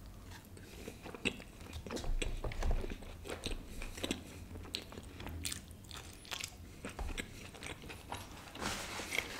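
A person biting into and chewing a stuffed kulcha (Indian leavened flatbread) dipped in raita, close to the microphone: irregular small clicks and wet mouth sounds of chewing throughout.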